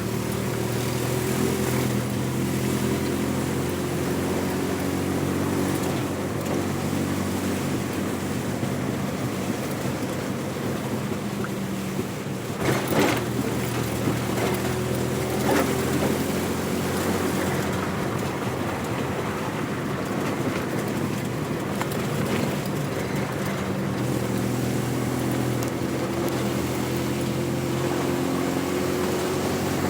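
A motor vehicle's engine running steadily while driving along a road, its pitch drifting up and down a little, over road noise. Two knocks stand out about 13 and 15 seconds in.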